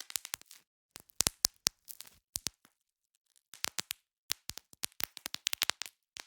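Bubble wrap being popped by hand: quick runs of sharp pops with plastic crinkling between them, in three bursts, with a short pause before the last and longest run.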